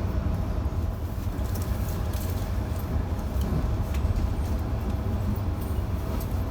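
Electric passenger train running between stations, heard from on board: a steady low rumble with faint clicks and rattles from the carriage.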